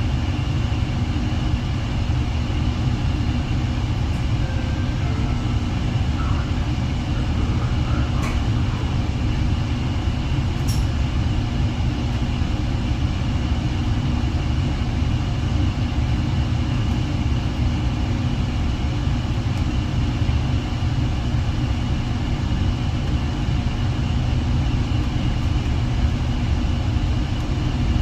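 Metra commuter train giving a steady low rumble, with a constant high-pitched whine above it. A couple of faint clicks come around eight and eleven seconds in.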